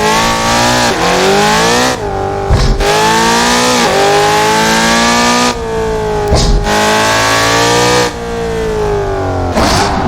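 Car engine driven hard on a lap, revving up and dropping off again several times as it accelerates, shifts gear and lifts for corners. Short crackles come on the lifts.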